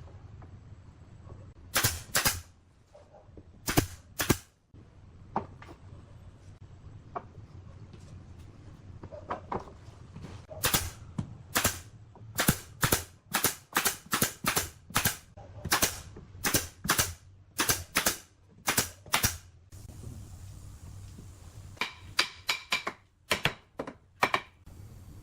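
A series of sharp cracks, as of nails being driven into wood, a few widely spaced at first, then a run of about two a second, then a few more near the end.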